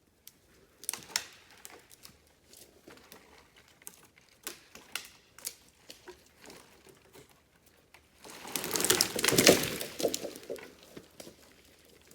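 Scattered cracks and snaps of branches, then, about eight seconds in, a loud crashing rush of about two seconds as a hung-up tree comes down through the branches.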